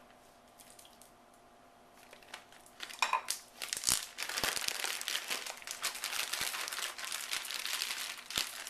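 Plastic zip-top bag crinkling as raw chicken strips are dropped into the flour inside it and the bag is worked to coat them. Faint clicks at first, then dense crinkling with a few knocks from about three seconds in.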